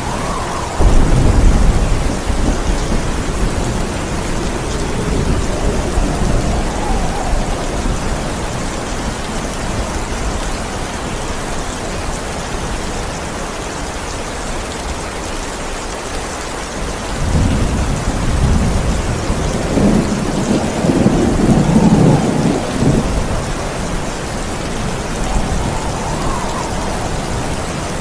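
Heavy steady rain with rolling thunder: a sudden loud clap-and-rumble about a second in, then a longer roll of thunder building and fading in the second half.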